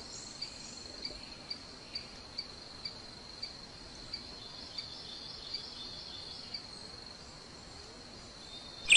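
Insect trilling: a steady high-pitched tone with short chirps about twice a second.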